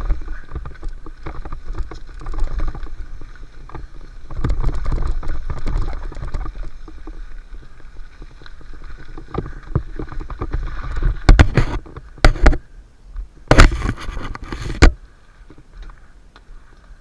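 Mountain bike rolling fast down a dirt flow trail: wind rushing over the camera mic, tyres crunching on dirt, and the bike rattling, with several hard knocks between about 11 and 15 seconds in. It goes much quieter near the end.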